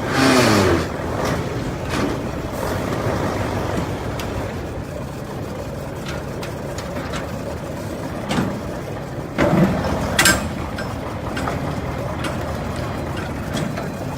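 Motor vehicle noise: a steady engine and road hum, with a falling pitch in the first second and a couple of brief louder bursts later on.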